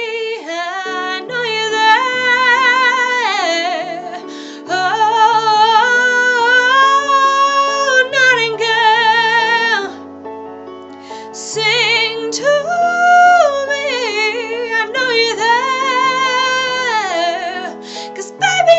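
A woman singing wordless held notes and runs with a wide vibrato over an instrumental backing track. The singing breaks off briefly about halfway through, then picks up again.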